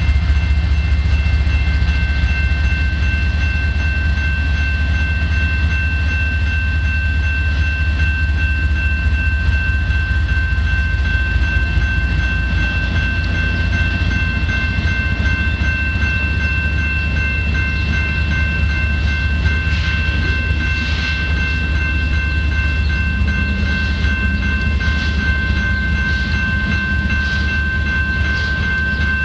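Freight train of covered grain hopper cars rolling past with a heavy, steady low rumble. A steady high whine is held over it throughout, and sharper metallic clatter comes in during the last third.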